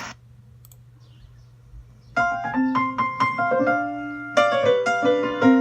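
A short quiet gap, then a piano starts playing a bouncy melody about two seconds in, with single notes and chords that each ring and fade.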